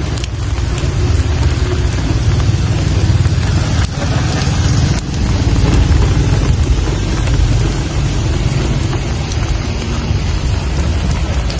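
Steady rainfall with scattered sharp drop clicks over a continuous deep low rumble.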